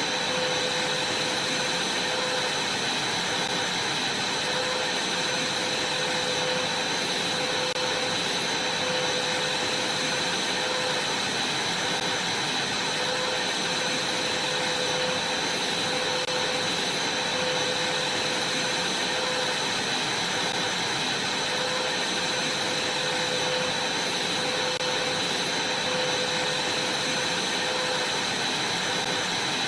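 Vacuum cleaner running steadily: an even rush of air with a high whine and a lower hum, unchanging throughout.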